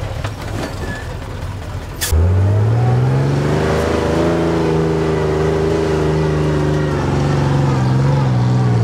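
Off-road competition truck engine: a rumble, then a sharp click about two seconds in, after which the engine comes in loud, its pitch rising and then held at high revs under load.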